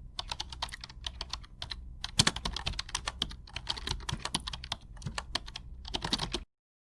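Rapid, irregular computer-keyboard typing clicks, cutting off suddenly about six and a half seconds in.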